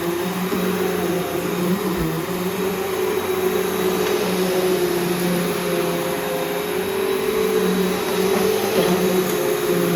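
Bissell PowerGroom Multi-Cyclonic upright vacuum cleaner running steadily while vacuuming, its motor hum wavering slightly in pitch.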